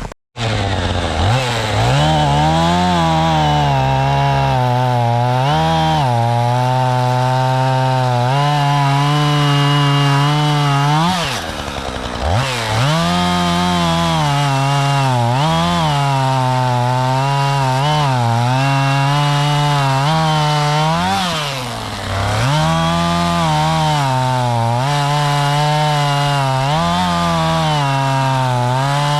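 Two-stroke chainsaw running at high revs while bucking a log, its pitch wavering up and down as the chain loads in the cut. It drops back briefly about eleven seconds in and again around twenty-two seconds, then revs up again.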